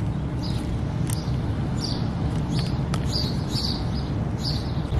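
Birds chirping: short high calls every half second to a second, over a steady low rumble.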